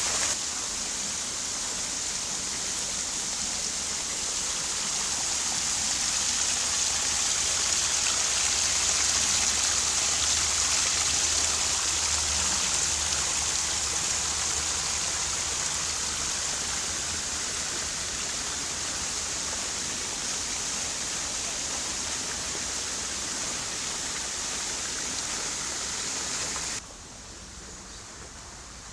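Fountain water splashing and falling in a steady rush, which drops away abruptly near the end, leaving a much quieter background.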